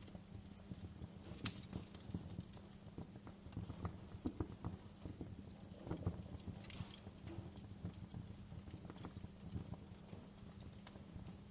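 Wood fire crackling in a fireplace: irregular pops and snaps over a steady low rumble, with a couple of sharper cracks about a second and a half in and again around six to seven seconds in.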